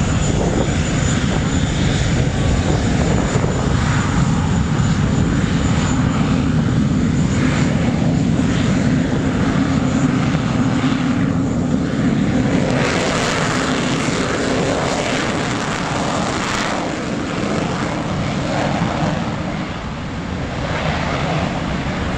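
English Electric Lightning's twin Rolls-Royce Avon turbojets running loud, a deep continuous rumble with a thin high whine that fades out during the first several seconds. The noise eases slightly near the end.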